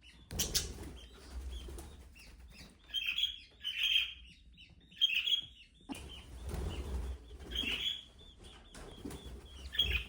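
Budgerigar chirping in short repeated calls, with bursts of wing flapping, one loud burst about half a second in and more around the middle.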